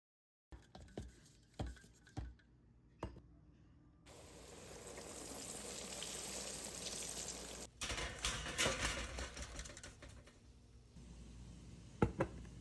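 Food frying in hot oil, with scattered knocks of kitchen utensils. Knocks come first, then the oil sizzles as a steady hiss, and after a sudden cut it crackles with many small pops.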